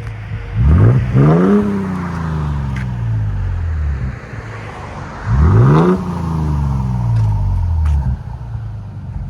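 Toyota Tundra 3.4L twin-turbo V6 through a CARVEN R-Series muffler, with the factory rear resonator kept, revved twice from idle. Each time the revs climb quickly, then drop slowly back to idle. A clean exhaust tone.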